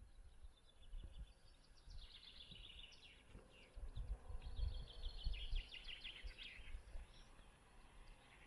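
A songbird singing two faint phrases of quick repeated notes, a short one about two seconds in and a longer one about four seconds in, over a low rumble of wind on the microphone.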